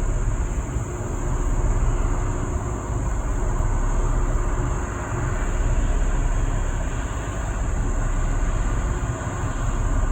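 Wind buffeting the microphone: a loud, continuous low rumble that swells and eases with the gusts.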